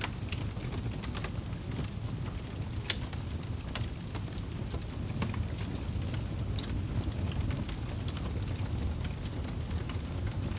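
Wood fire burning in a fireplace: a steady low rumble of flames with irregular sharp crackles and pops of the firewood, the loudest about three seconds in.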